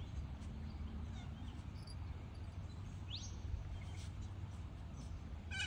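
Open-air ambience: a steady low rumble with faint scattered bird chirps, and a louder bird call right at the end.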